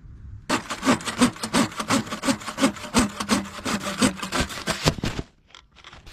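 Hand saw cutting through wood in quick, even back-and-forth strokes, about three a second. It starts about half a second in and stops abruptly after about five seconds.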